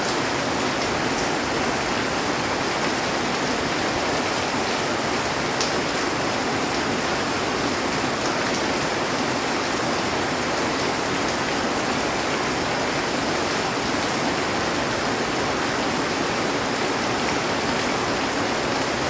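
Heavy rain falling steadily on a metal roof: an even hiss with a few faint sharper drop ticks.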